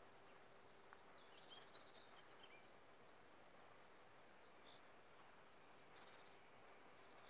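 Near silence with faint birdsong: a few short chirps and trills from small birds, the first about a second in, over a low hiss and a faint steady hum.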